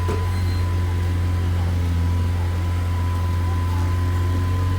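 Air compressor running with a steady, even hum.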